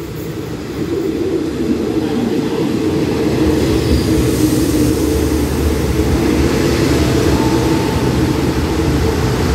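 Diesel railcar train pulling into a station platform, its engine and running gear making a steady low drone that grows louder over the first two seconds as it comes alongside, then holds steady.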